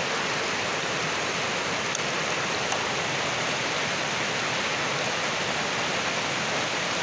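River waterfall rushing: a steady, even hiss of falling water.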